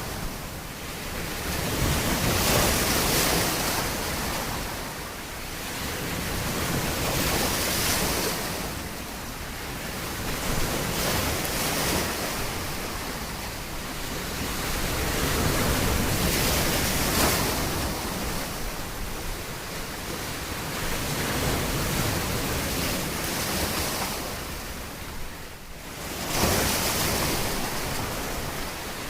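Surf on a beach: waves breaking and washing up the shore, the sound swelling and fading in slow surges every few seconds.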